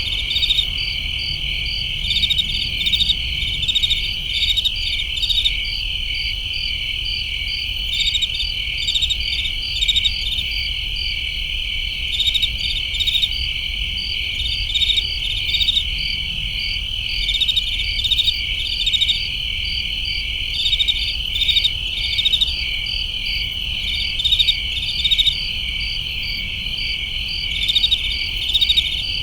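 Crickets chirping in a summer night chorus: one continuous high trill with groups of quick pulsed chirps repeating over it every second or two.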